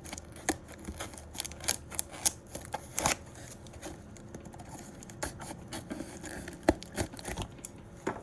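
Cardboard mystery box being opened and handled by hand: a run of irregular sharp clicks and scrapes, loudest about three seconds in.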